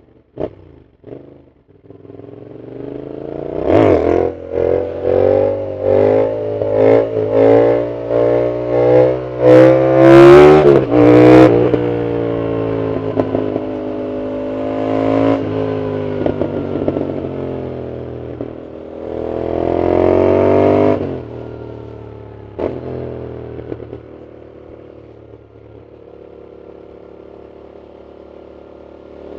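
Yamaha MT-07's parallel-twin engine on a full exhaust, revved in a quick run of throttle blips about twice a second, then pulling steadily. It rises again in a hard rev about two-thirds of the way through, then drops back to a low, quieter run.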